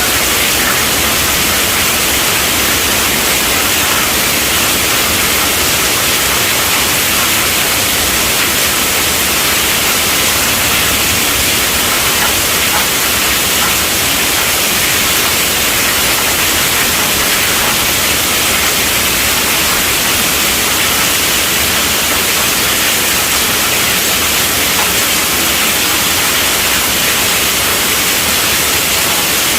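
Heavy rain falling on a tent roof, a steady dense hiss with no thunderclaps or breaks.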